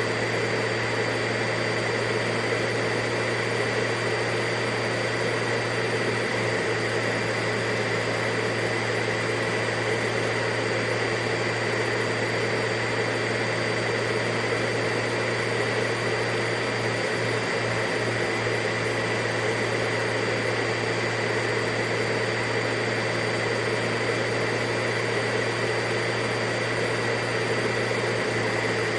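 Vacuum cleaner running steadily: an even motor roar with a low hum and a high whine that hold constant throughout.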